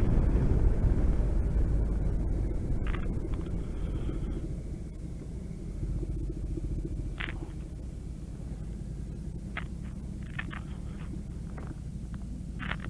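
Motorcycle engine rumble mixed with rushing noise that eases off over the first few seconds, settling into a steady low engine running. A few short, high chirps sound over it.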